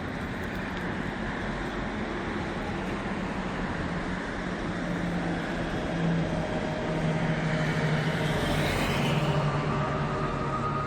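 Steady road traffic noise with a low engine hum, growing louder about eight to nine seconds in.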